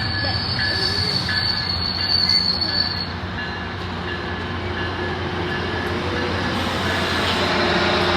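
Metrolink train moving along the rails, its wheels giving a steady high-pitched squeal for the first few seconds over the rumble of the train, which grows louder toward the end.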